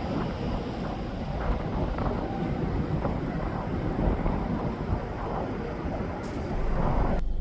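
Steady noise of interstate highway traffic: tyres and engines of passing trucks and cars. Near the end it cuts off abruptly to a low steady hum.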